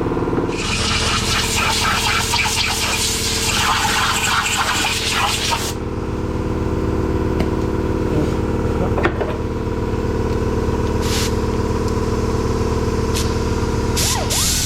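A steady machine hum. From about half a second in to about six seconds in, a harsh, scratchy hissing noise runs over it, with a few sharp clicks later.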